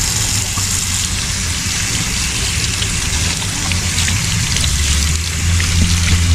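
Water running steadily, with a vehicle engine idling underneath that grows louder about five seconds in.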